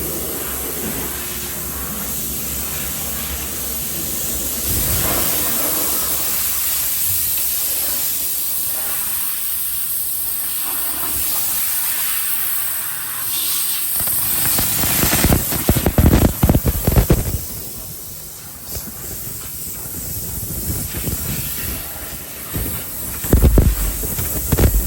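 Conveyor car wash tunnel heard from a car riding through it: a steady hiss of water and chemical spray on the car. About fifteen seconds in, and again near the end, loud irregular thumping and rumbling from the wash equipment.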